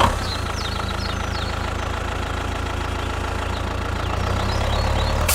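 An engine idling steadily with an even low rumble, growing slightly louder near the end, with birds chirping in the background.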